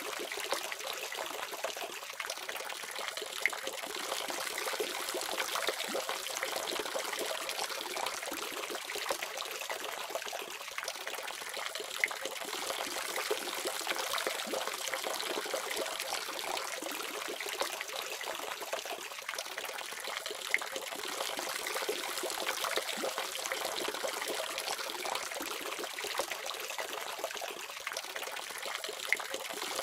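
Water running steadily from a tap, a continuous splashing hiss.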